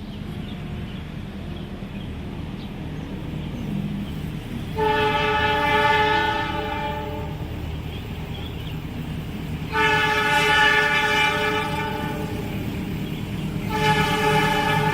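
Indonesian diesel locomotive approaching with its engine rumbling steadily, sounding its horn three times: two long blasts of about two seconds each, then a third starting near the end.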